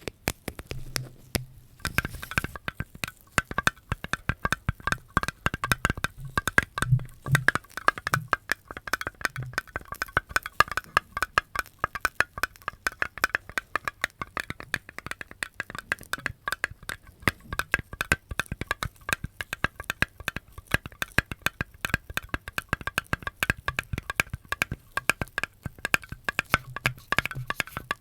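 Close-up ASMR trigger sounds: fast, dense clicking and tapping on a hard object, many sharp clicks a second, growing busier about two seconds in.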